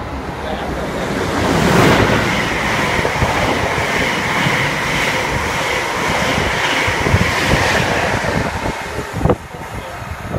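Locomotive-hauled passenger train passing through the station non-stop at speed: a rush of wheels on rail and air that swells over the first two seconds, holds steady, then falls away about nine seconds in with a sharp clack, followed by a few scattered wheel clacks.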